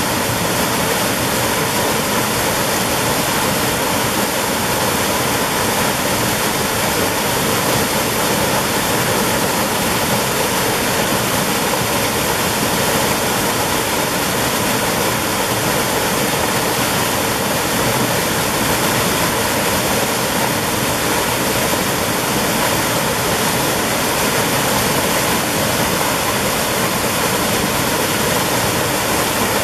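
Mountain stream water rushing and splashing over rocks, a steady, dense roar.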